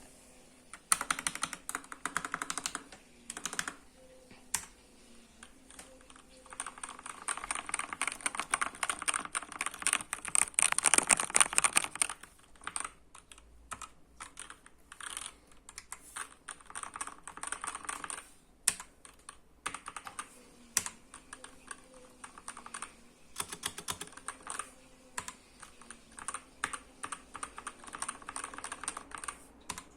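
Typing on a computer keyboard: runs of rapid keystrokes, the fastest and loudest flurry about a third of the way in, with sparser, separate key clicks between the runs.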